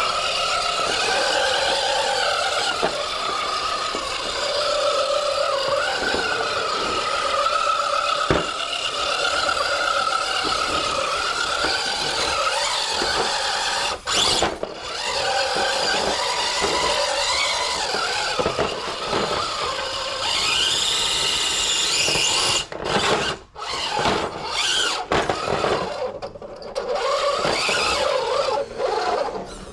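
Electric motor and geared drivetrain of a trail truck whining as it crawls over rocks, the pitch rising and falling with the throttle. In the last several seconds it stops and starts in short spurts.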